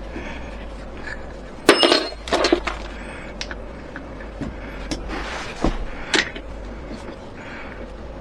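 Irregular clinks and knocks, loudest about two seconds in, with lighter ones later, over a steady low hum.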